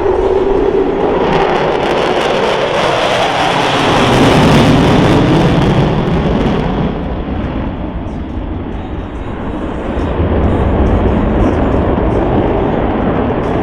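Boeing F/A-18E/F Super Hornet jets passing by at close range. The jet noise builds to its loudest about four to five seconds in, dropping in pitch as they go past. The high hiss then falls away, leaving a lower rumble as they move off.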